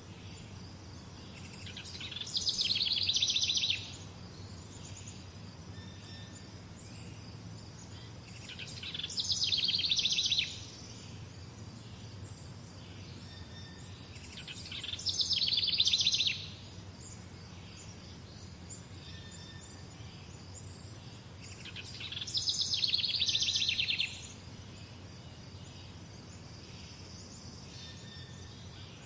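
A songbird singing a fast trilled phrase about two seconds long, four times roughly every six to seven seconds, each phrase growing louder and then stopping abruptly. Faint chirps from other birds sound between the phrases over a steady low background hum.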